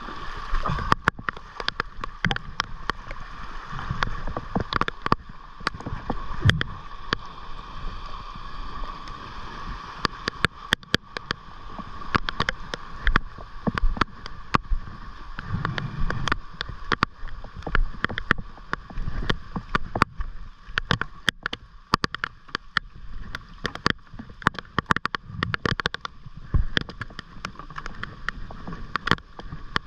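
Rain falling in a squall: many irregular sharp taps of drops striking close by, over water sloshing, with a low thump every few seconds.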